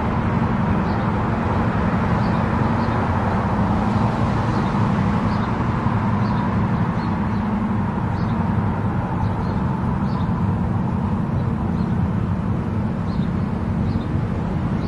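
Car driving at highway speed: a steady rumble of tyres on the road and engine.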